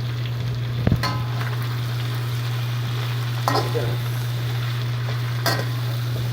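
Onion, garlic and tomato sizzling in a frying pan as they are stirred, with a utensil knocking against the pan about a second in, midway and near the end. A steady low hum runs underneath.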